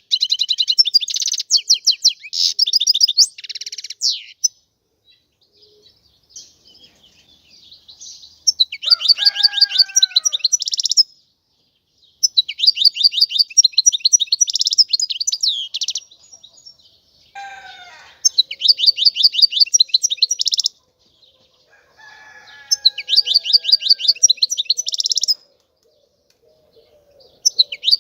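European goldfinch singing: phrases of fast, high trilled and twittering notes, each lasting two to four seconds, repeated about six times with short pauses between them. A few fainter, lower gliding notes come in the gaps.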